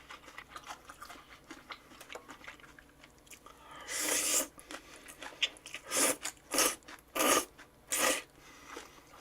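Close-miked eating sounds: steady small wet chewing clicks, then about five loud crunching bites of half a second each in the second half.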